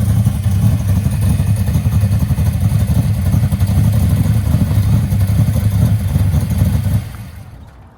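A muscle car's engine running at idle with a loud, deep rumble, cutting off sharply about seven seconds in.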